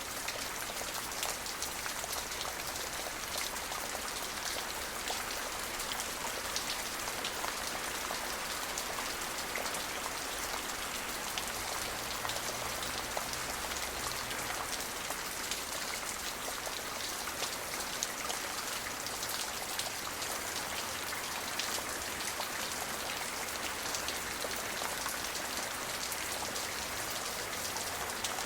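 Steady rain falling, with a constant hiss and many distinct drop ticks on a surface.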